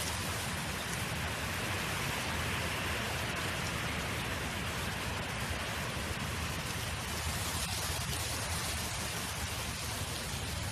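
Wind blowing across an open field: a steady, even hiss with a fluttering low rumble underneath.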